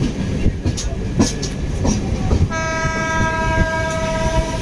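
A passing train: wheels knocking over rail joints with a low rumble, then about halfway through the locomotive's horn sounds one long steady note for about two seconds.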